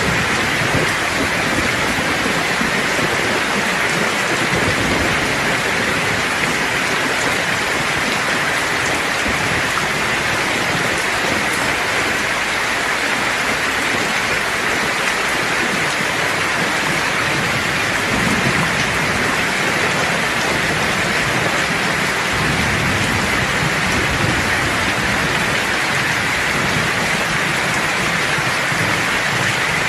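Steady heavy rain pouring and spattering on surfaces, an even hiss that does not let up. Low thunder rumbles softly underneath a little past halfway and again near the end.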